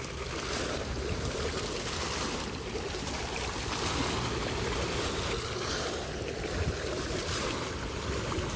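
Water fountain splashing and running steadily.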